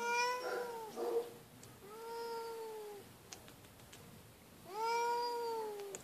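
Feral cat meowing loudly: three long, drawn-out meows, each rising and then falling in pitch, with a short rough burst just after the first one.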